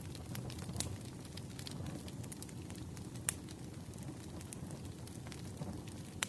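Campfire crackling: a steady low rush of burning with irregular sharp pops and snaps, a few of them louder.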